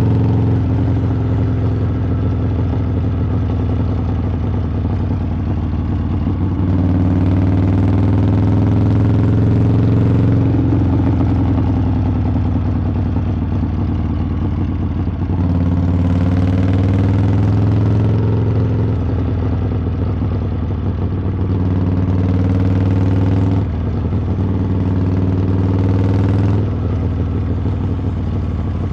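Harley-Davidson V-twin engine and exhaust running on the move. The throttle is opened and rolled off several times, so the exhaust note gets louder and then drops back, with pitch sweeps and shifts along the way.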